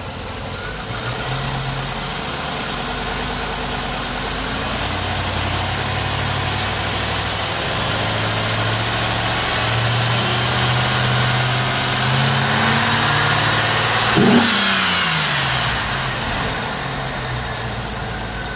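2008 Chevrolet Trailblazer SS's 6.0-litre LS2 V8 running at raised revs that climb slowly. About fourteen seconds in the throttle is let off and the revs drop quickly back toward idle.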